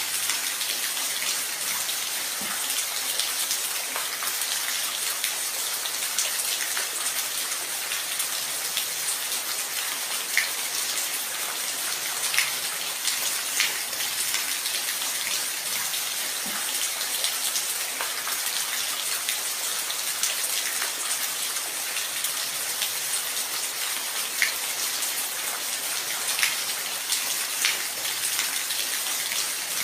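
Steady rain falling, an even hiss with individual drops ticking sharply on a hard surface here and there.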